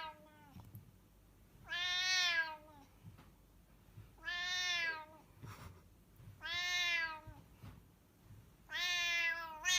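A domestic cat meowing over and over: long drawn-out meows about every two and a quarter seconds, each dropping in pitch at its end.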